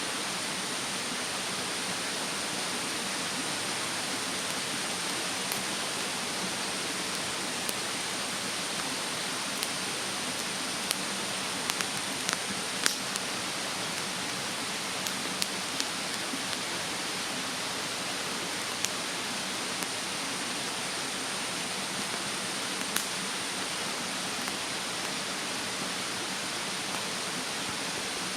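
Wood fire burning in a fire stand, giving sharp crackling pops scattered irregularly over a steady rushing sound of a mountain stream.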